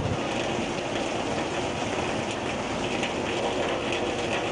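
Heavy rain falling, a steady, even rush of drops.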